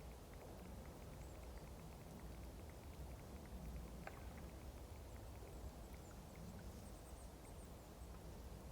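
Faint blizzard wind, a steady low rumble, with scattered small crackles and pops from a wood fire.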